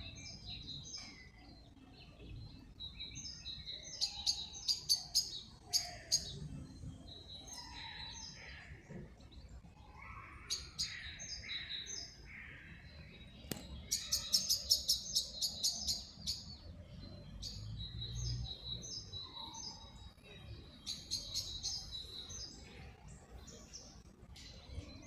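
Small songbirds chirping and twittering, with fast runs of repeated chirps about 4 seconds in and again about 14 seconds in.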